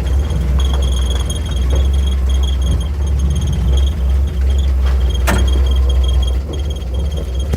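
1955 Willys CJ-5's F-head four-cylinder engine running steadily, a low rumble, shortly after a slow, reluctant cold start. A thin high tone comes and goes over it, and a single sharp click sounds about five seconds in.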